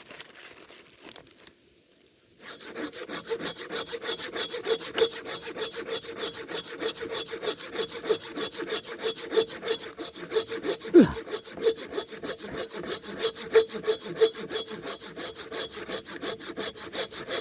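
Hand saw cutting through an oak log with fast, even back-and-forth strokes, starting about two seconds in after a quiet pause. A steady ringing tone from the blade runs under the strokes, and there is one brief falling tone near the middle.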